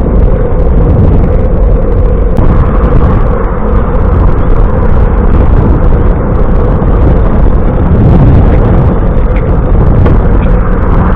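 Steady, loud wind noise buffeting the microphone of a camera riding along on a moving bicycle.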